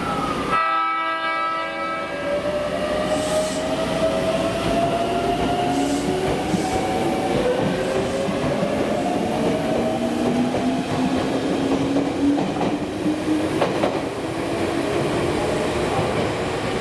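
Tokyu 1000 series electric train pulling away, its traction motor whine rising slowly in pitch as it accelerates, with a few rail-joint clacks. A brief steady tone sounds about half a second in.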